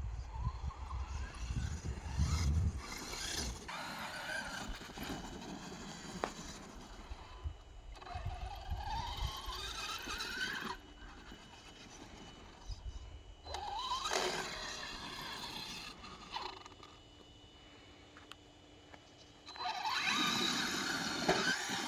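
Electric 1/8-scale RC monster trucks' brushless motors whining under throttle, rising in pitch as they accelerate, in several separate runs with quieter gaps between; the last run, near the end, is the loudest.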